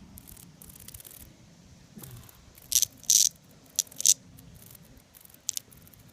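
Cicada seized by a cicada killer wasp, giving a few short, harsh, loud buzzing bursts in the middle of the struggle, the loudest just past a second in the middle, and a last brief one near the end.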